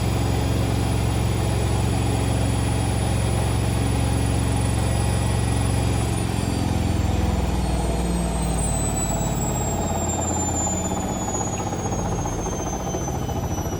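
Indesit Moon SIXL145 washing machine on its final 1400 rpm spin, running steadily at top speed. About six seconds in the hum changes and a high whine starts falling steadily in pitch as the drum begins to slow down.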